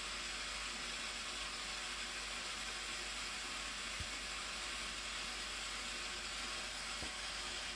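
Steady rushing roar of the Blue Nile Falls, an even hiss of falling water with no change in level. A couple of faint low knocks come about halfway through and near the end.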